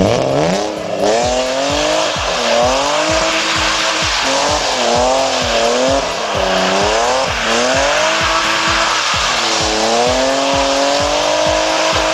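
Straight-piped BMW E36 323i driven hard with the tires squealing, its inline-six engine's pitch swinging up and down as the revs rise and fall. The sound starts suddenly and stays loud throughout.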